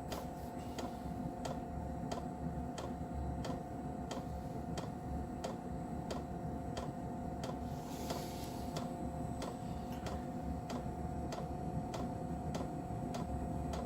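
Diesel heater's fuel dosing pump knocking steadily at about two ticks a second while the heater fires up, over a steady hum. The knocking is loud during start-up and fades once the heater is running.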